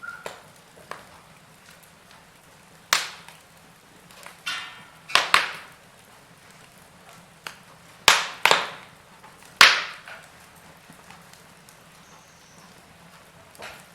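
Wood fire crackling: a scatter of sharp pops and snaps from burning logs, the loudest clustered around three, five, eight and ten seconds in, over a low steady hiss of the fire.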